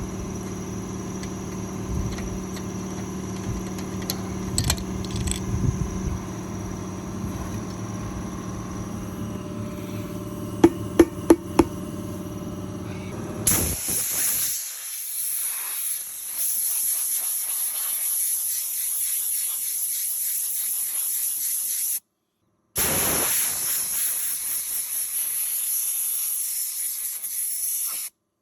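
A steady mechanical hum with four sharp clicks in quick succession, then a compressed-air blow gun hissing steadily as it blasts dust and seed out of a tractor radiator, broken by two brief gaps.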